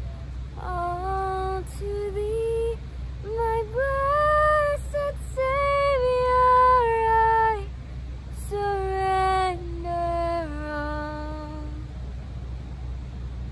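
A woman singing unaccompanied: a run of long held notes that slide slowly from one pitch to the next, dying away about twelve seconds in. A steady low rumble lies underneath.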